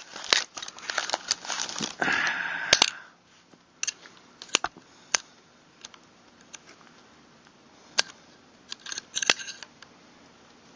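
Metal and plastic shotgun parts being handled and fitted together during reassembly: a few seconds of rapid clicking and scraping, then scattered single clicks and a short cluster of clicks near the end.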